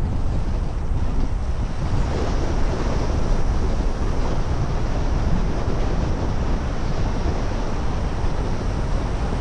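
Steady rushing noise of a car driving: wind buffeting and tyre and road noise, heavy in the low end, with no change in level.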